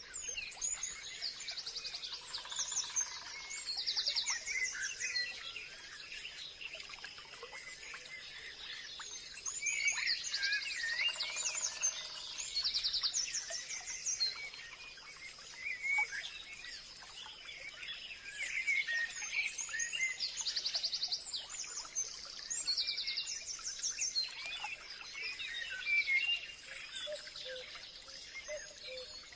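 Forest birdsong: several birds calling at once with overlapping chirps, quick trills and whistled phrases over a faint steady background.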